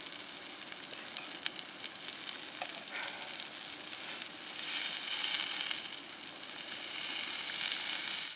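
Paneer cubes and potato pieces frying in oil on a flat iron tawa: a steady sizzle with scattered pops of oil, louder about halfway through and again near the end.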